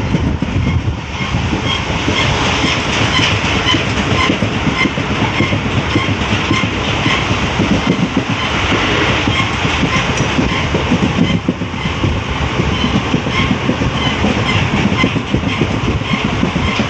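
Express train running at speed, heard from a coach window: a steady rumble and rattle of the wheels on the track, with frequent clicks.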